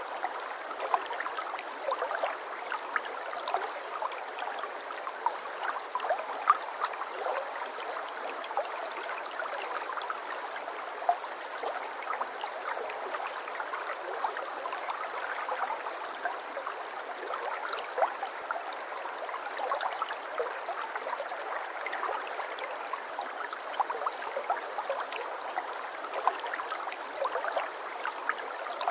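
Shallow babbling brook flowing over stones: a steady burble of running water dotted with many small splashes and gurgles.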